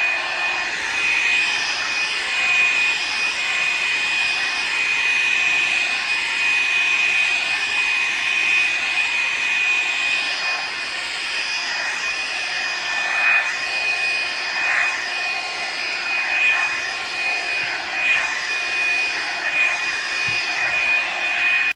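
Hot-air brush hair dryer running steadily: a high motor whine over rushing air.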